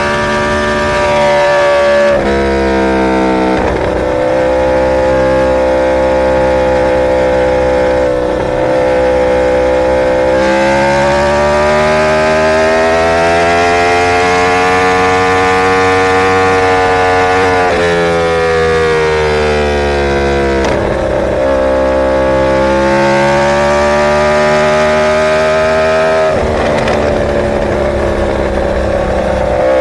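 Inline-four sportbike engine running at high revs under way. Its pitch swells and sags slowly over several seconds, with a short break in the sound every few seconds.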